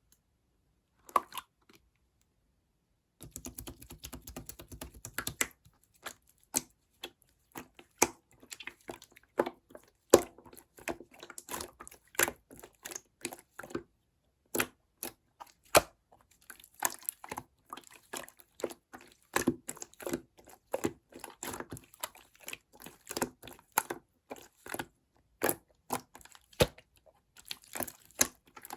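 Slime being squished and mixed by hand: an irregular run of sticky clicks, pops and crackles, starting with a few clicks and becoming dense about three seconds in.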